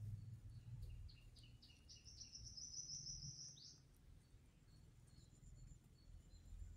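A bird calling faintly: a run of short high notes that quicken into a trill over about three seconds and end in one falling note. Later a faint, steady, high insect buzz begins, over a low rumble.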